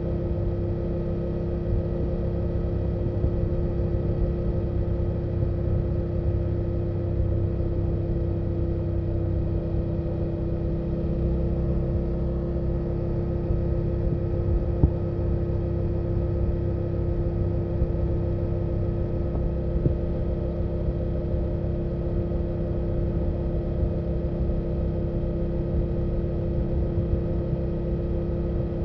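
2024 BMW F800GS parallel-twin engine and exhaust running at steady revs while riding, a low rumble with a steady hum; one short click about halfway through.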